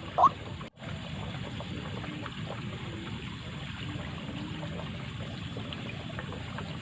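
A last loud, short call of a repeated 'ruak' series from a white-breasted waterhen, then, after a brief break, a steady rushing background noise.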